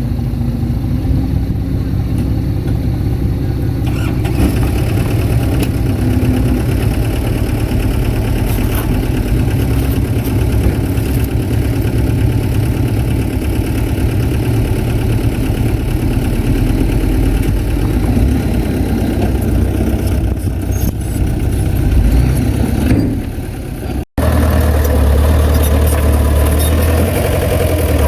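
Heavy diesel engine of earthmoving machinery running steadily with a deep rumble. About three-quarters of the way through the sound cuts out for an instant, then picks up again as a similar, deeper engine sound.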